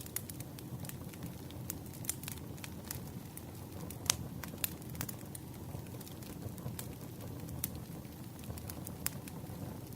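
Campfire burning, with a steady low rumble of flames and irregular sharp crackles and pops of burning wood, one louder pop about four seconds in.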